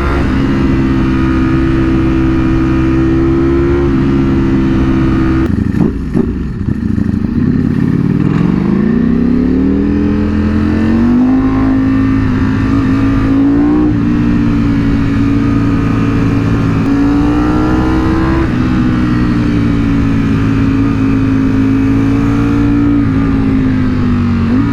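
Ducati Panigale V4 SP's V4 engine on the move at steady revs. It drops off about six seconds in, then revs up smoothly over three seconds or so and holds again, with a few small rises and dips in pitch.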